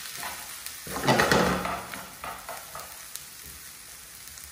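Onion and bell pepper sofrito sizzling in achiote butter in a frying pan while a utensil stirs it, with light clicks and scrapes against the pan. The stirring is loudest about a second in.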